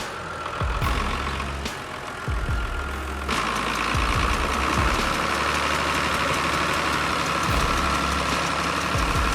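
Tractor engine running, getting louder about three seconds in.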